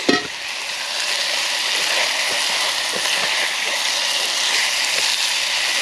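Chicken pieces sautéing in a frying pan on a camping stove: a steady sizzling hiss with faint crackles.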